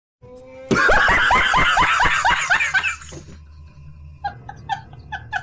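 Laughter: a loud, fast run of about ten short laughs, each falling in pitch, lasting about two seconds, followed by softer, quieter chuckles near the end.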